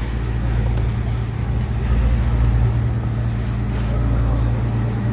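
Cruise boat's engine running steadily: a low, even hum under a steady hiss.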